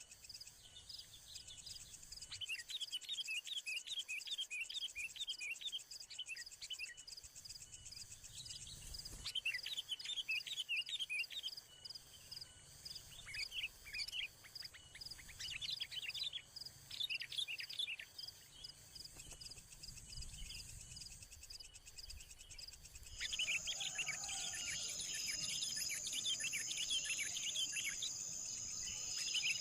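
Small bird chirping in quick runs of short, high notes, over a steady high-pitched drone of insects. About two-thirds of the way through, the insect drone suddenly becomes louder and the chirping becomes denser.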